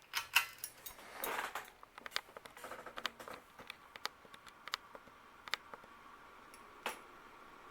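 Harbor Breeze Southern Breeze ceiling fan starting up in reverse: a faint steady motor hum comes in after a couple of seconds, with scattered sharp clicks and a rustle of handling near the start.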